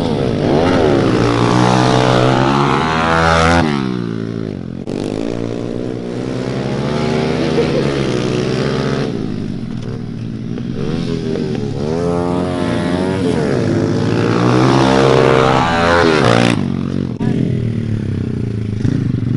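Small four-stroke pit bike engine revving as it is ridden. Its pitch climbs repeatedly under throttle and falls back when it eases off, notably about four seconds in and again near the end.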